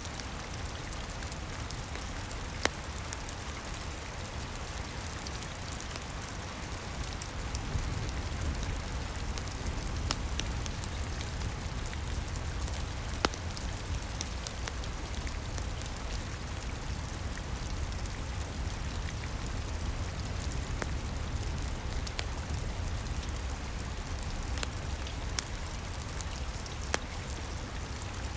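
Steady rain with a deep low rumble, mixed with scattered sharp crackles and pops from a wood fire, three of them standing out louder.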